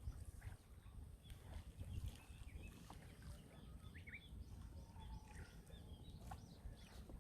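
Sea waves in a lull between breakers: a faint low surf rumble with scattered small, high ticks and chirps.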